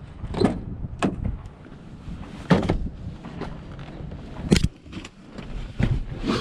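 A series of irregular knocks and clunks, about six spread a second or so apart, some ringing briefly, over a steady low rumble.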